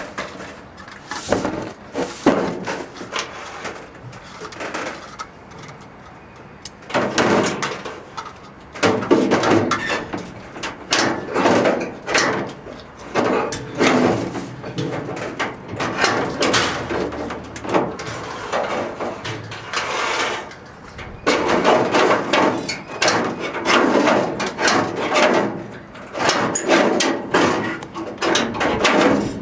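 Irregular knocking and clattering from work on sheet-metal cladding around a roof chimney.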